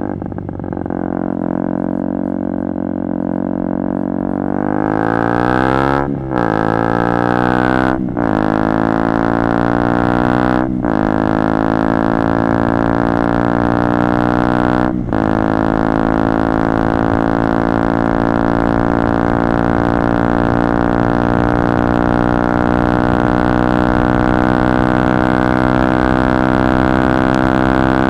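KTM Duke 125 single-cylinder engine through a Radical Racing GP aftermarket exhaust with its dB-killer out, accelerating hard. The pitch climbs through the gears with four quick breaks for upshifts, then it holds a steady high drone at constant revs.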